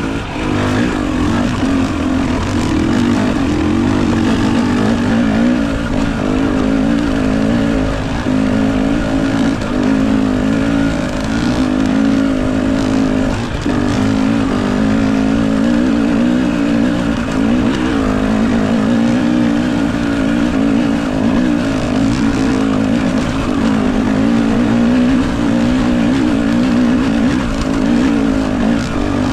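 KTM enduro dirt bike engine running hard, its pitch rising and falling continually as the throttle is worked.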